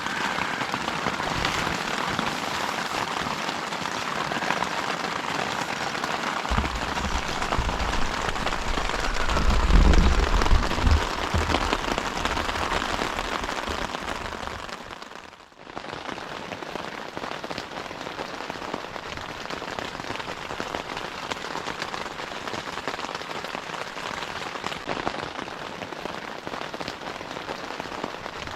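Steady, dense rain pattering. A low rumble swells between about six and eleven seconds in, and the sound dips out briefly about halfway through before the rain resumes.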